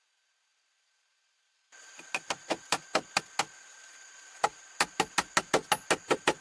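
Rapid sharp knocks or chops, a run of about seven, then after a short pause about ten more at roughly five a second, over a steady high insect drone. The sound cuts in after about a second and a half of silence.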